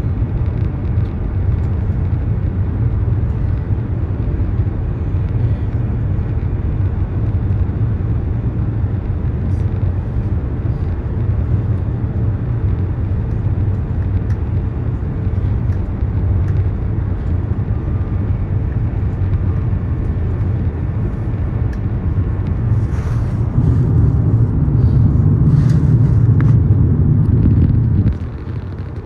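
Steady low rumble of a high-speed train running at speed, heard from inside the passenger carriage. It swells louder for several seconds near the end, then drops off sharply.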